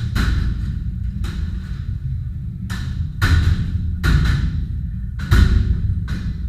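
About seven heavy, irregular blows of objects being smashed, each with a short crash and rattle of breaking debris that fades away; the hardest blow comes a little past the middle. Low background music plays underneath.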